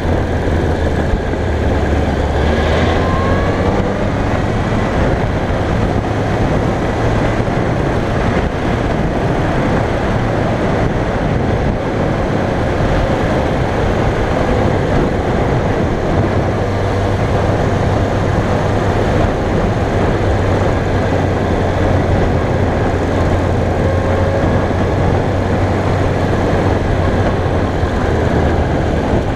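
2001 Yamaha YZF-R1's inline-four engine running steadily while the bike is ridden at an even pace, with a small rise in engine pitch a few seconds in. Wind and road noise run underneath.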